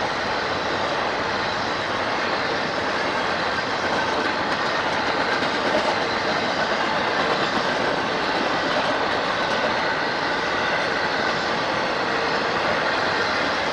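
Train cars rolling past on the rails at a grade crossing: a steady, continuous rush of wheel-on-rail noise that does not let up.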